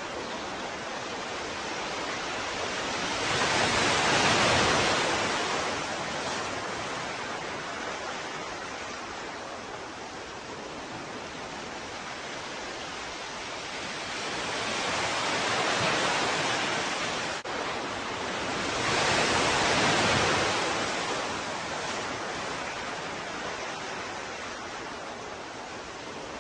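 Ocean waves surging and washing on a shore, with a steady surf hiss between. Three waves swell up loud, the biggest about four seconds in and two more close together late on.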